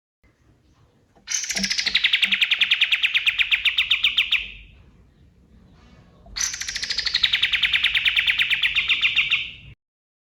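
Male kapas tembak songbird singing two long rapid trills, about ten notes a second, each starting high, sliding down and then holding steady for around three seconds. The second trill cuts off abruptly near the end.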